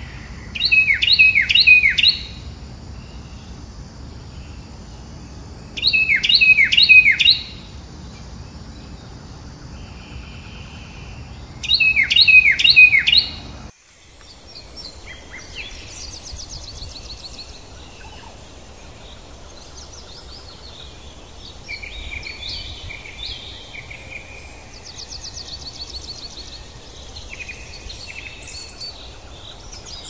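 A bird calling in loud bursts of about four quick falling notes, three times about five seconds apart. After an abrupt cut about halfway through, fainter, varied bird chirps and song run over a steady low background hum.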